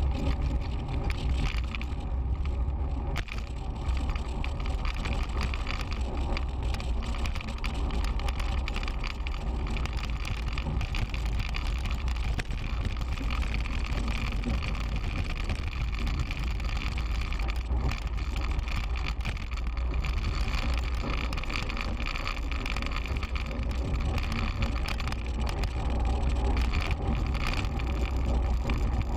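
Bicycle being ridden on the road, heard through a bike-mounted camera: low wind rumble and tyre and road noise, with a steady run of small ticks and rattles. The rider takes the rattle for the gear cables knocking against their casing.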